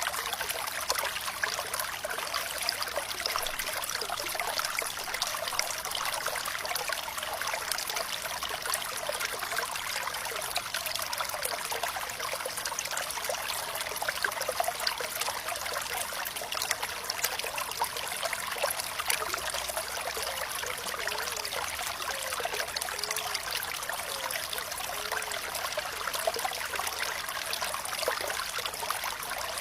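Flowing water trickling and babbling steadily, full of small splashing and bubbling droplet sounds, with little deep rumble.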